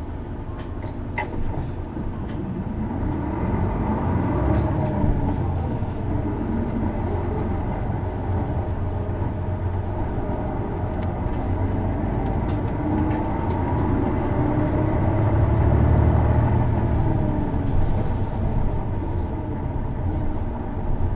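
Interior running sound of an Isuzu Erga city bus (PKG-LV234L2) under way. Its diesel engine rises in pitch as the bus accelerates a few seconds in, holds, then climbs again to its loudest about three-quarters of the way through before easing off, with a few sharp rattles over it. This engine is known for a distinctive abnormal noise that is also found on other PKG-era Ergas.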